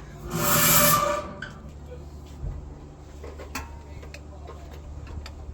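Hand tools clicking and clinking on metal while an engine is being stripped, over a steady low hum. About half a second in there is a loud rush of noise lasting about a second.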